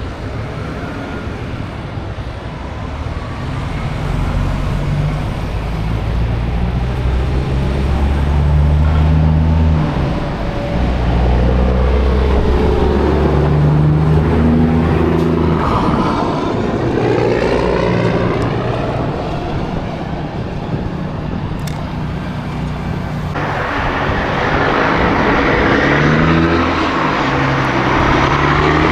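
Diesel semi-truck engine pulling away and climbing in pitch in several steps as it shifts up through the gears, with other traffic passing. About 23 seconds in, a steady rush of tyre and road noise from a passing vehicle takes over.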